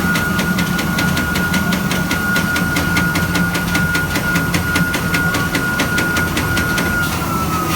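Eight-spindle CNC machine running, with a steady high whine over a low hum and a regular ticking about four times a second. Near the end the ticking stops and the whine begins to fall in pitch.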